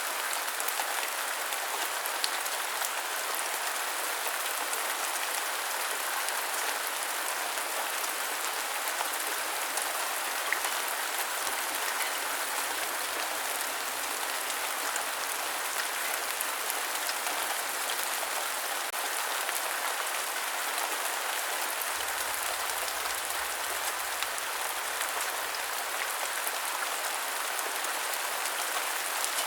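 Steady rain falling, an even dense patter with scattered sharper single drops.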